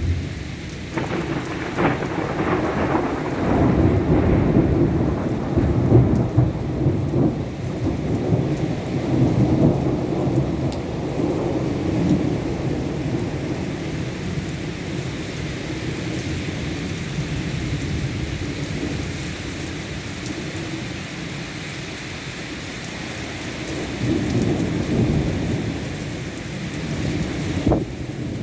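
Thunder rolling in a long low rumble over steady rain, loudest in the first dozen seconds, easing off, then swelling again near the end.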